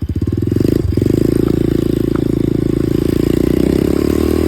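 Steady, loud low rumble of an electric dirt bike being ridden, mostly wind and motion noise on the rider's chest-mounted phone microphone.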